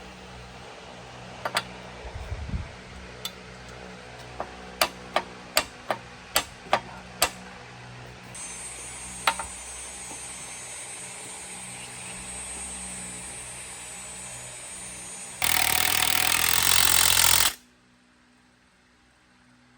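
Workshop tool work: scattered sharp knocks, then a quick run of about eight evenly spaced hammer-like strikes. These give way to a steady hum with a high hiss, and a loud burst of noise lasting about two seconds near the end, which stops abruptly.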